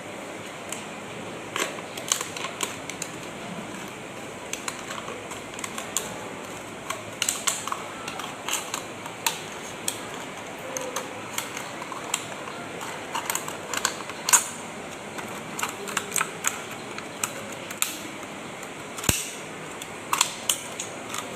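A plastic bottle being cut by hand, giving many irregular sharp clicks and cracks of the plastic over a steady hiss.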